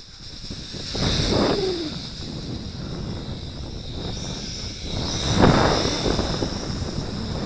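Wind buffeting the microphone in gusts, loudest about a second in and again about five and a half seconds in. Under it runs a thin high whine, shifting a little in pitch, from the small quadcopter's motors and propellers in flight.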